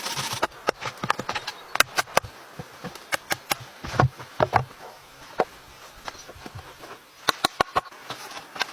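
Irregular sharp knocks and clicks from handling and working wood during shelter building, coming in short clusters over a quiet hiss.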